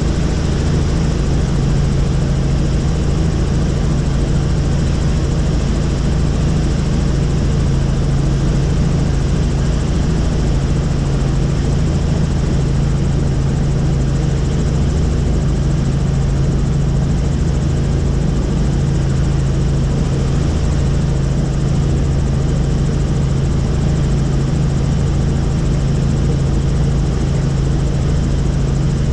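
Helicopter engine and rotor noise heard from on board in flight: a loud, steady drone with a constant low hum that does not change.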